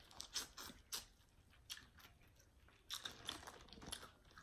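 Faint eating sounds of someone chewing seafood from a boil: a run of short, sharp clicks in a few clusters.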